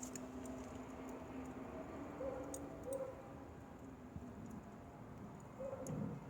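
Wood fire crackling, with irregular sharp pops and snaps over a low rumble of burning.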